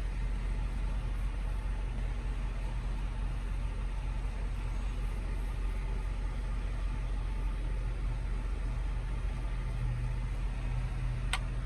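Steady low hum of an idling truck heard from inside the cab, with a single sharp click near the end.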